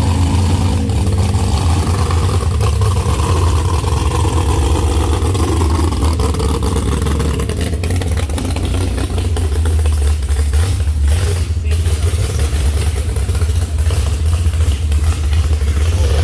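A truck engine running, loud and steady, with its sound mostly low-pitched and a few short knocks about two thirds of the way through.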